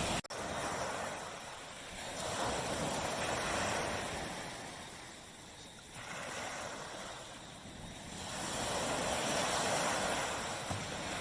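Tropical surf washing up on a beach, swelling and fading in slow surges every few seconds. A very brief dropout in the audio comes just after the start.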